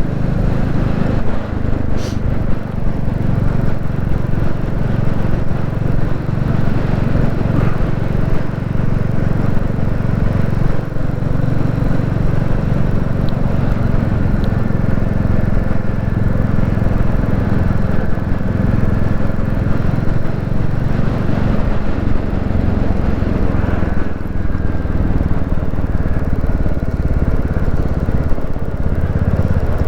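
Royal Enfield Classic 350's single-cylinder engine running steadily under way on the road.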